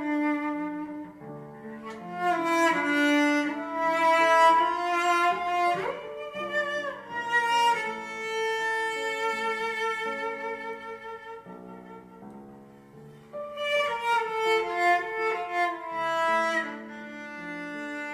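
Instrumental music: a bowed-string melody, violin and cello, played with vibrato and sliding notes.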